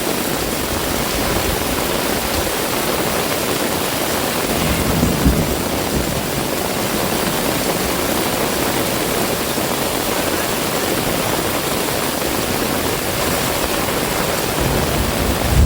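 Heavy rain pouring down in a steady, dense hiss, with a brief low thump about five seconds in.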